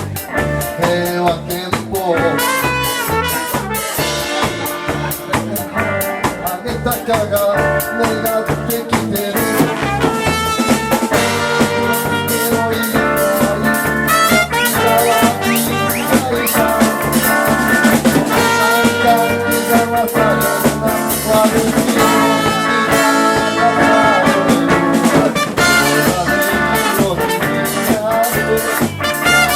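Live band playing an instrumental passage in a ska/jazz style: a drum kit keeps a steady beat under a bass line while horns carry the melody.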